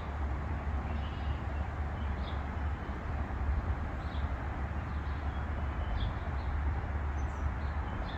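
Small birds chirping, short high calls about a dozen times, over a steady low rumble and hiss.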